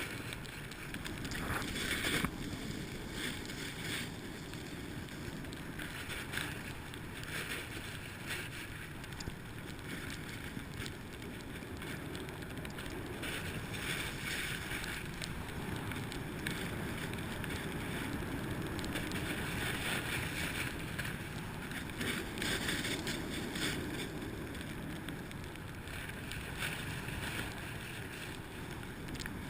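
Snowboard running downhill: the board's edges scrape and hiss over the snow, surging every few seconds as the rider carves turns, with wind rushing over the microphone.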